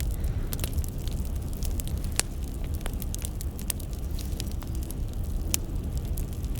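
Firewood burning and crackling: scattered sharp pops and snaps over a low steady rumble, with the clearest pops about two seconds in and again about five and a half seconds in.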